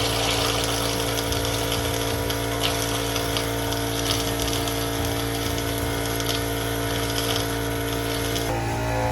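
Air compressor running with a steady hum while compressed air hisses through the water plumbing, blowing the lines out for winter. The hiss cuts off about eight and a half seconds in.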